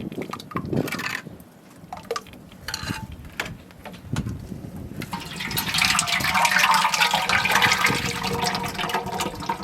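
A few light knocks, then, about halfway through, liquid starts pouring steadily into a container and splashing.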